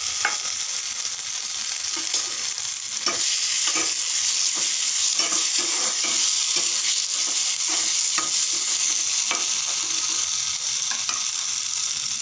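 Mutton pieces and onions sizzling steadily in hot oil in a kadai while a steel ladle stirs them, scraping and knocking against the pan with irregular strokes.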